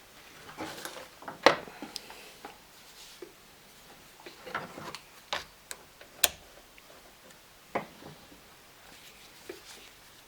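Scattered clicks and light knocks from handling tools and the chainsaw, with quiet between them; the sharpest click comes about six seconds in.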